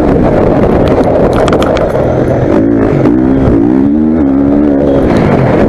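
Motocross bike engine running loud under hard throttle, its pitch rising and falling again and again as the rider opens and shuts the throttle. There are a few sharp knocks about a second and a half in.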